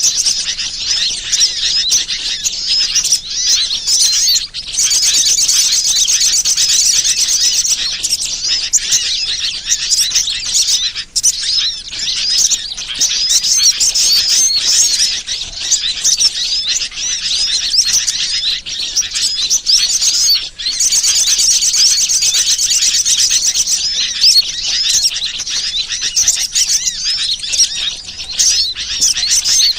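Dense, continuous chatter of many small birds chirping, a bird-lure recording played back to draw wild birds in.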